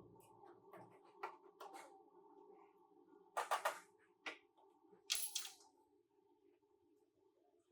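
Workshop sounds of hand work on a car body: scattered light clicks and metallic taps over a faint steady hum. Two louder short rattling bursts come about three and a half and five seconds in.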